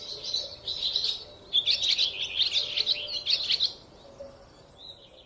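A songbird singing rapid, high chirping phrases in two long bursts, with a short fainter phrase near the end.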